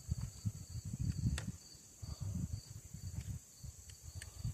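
Hands handling and fiddling with chainsaw parts while refitting the throttle linkage: irregular low bumps and rubbing with a couple of light clicks.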